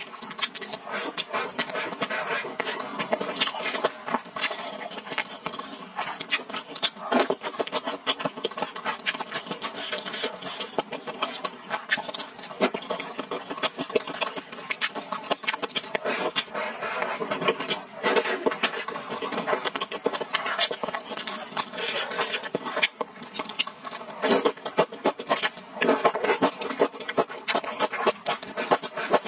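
Close-miked eating sounds: steady chewing and lip smacking of fried rice and hot pot beef, a dense run of wet mouth clicks with no break.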